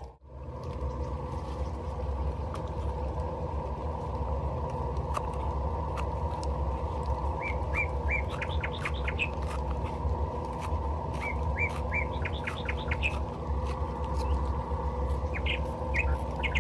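A small bird chirping in three runs of quick high notes, over a steady low rumble.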